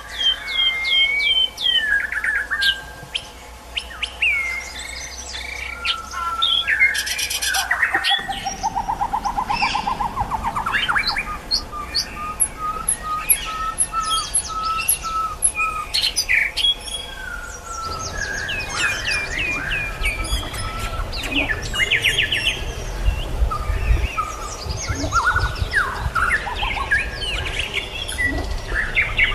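White-rumped shama and hill blue flycatcher singing in full, varied song: quick whistled notes, slurs and trills, including a rapid trill about eight seconds in and a run of evenly repeated notes in the middle.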